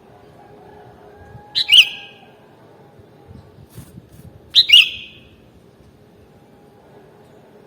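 Sooty-headed bulbul (kutilang) giving two short, loud calls about three seconds apart, each a quick pair of notes, with a few faint taps in between.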